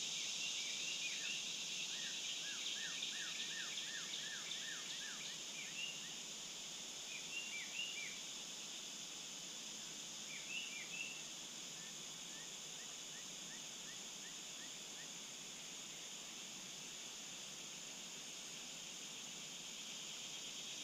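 Steady high-pitched insect chorus, with a bird calling over it in quick runs of short down-slurred chirps, busiest in the first few seconds and again twice more, then a faint series of short notes before the insects carry on alone.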